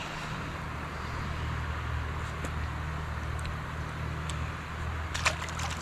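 Steady rushing of water at a small creek spillway, an even hiss over a low hum, with a few short clicks about five seconds in.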